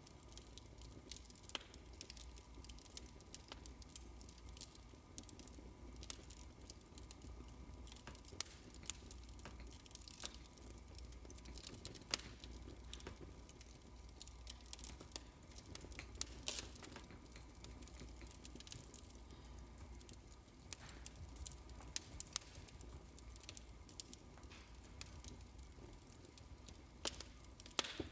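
Fireplace crackling: a wood fire giving off irregular small pops and snaps over a faint low hum.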